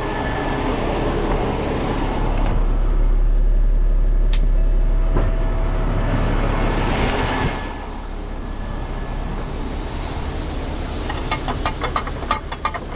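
Heavy wrecker's diesel engine running and getting louder under hydraulic load as its spades are lowered. A hiss of released air comes about seven seconds in, typical of the air suspension being dumped. A run of light metallic clicks and clanks follows near the end.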